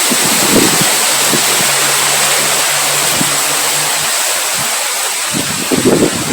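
Steady heavy rain hissing, with low rumbling gusts of wind shortly after the start and again near the end, and a faint low hum between about one and four seconds in.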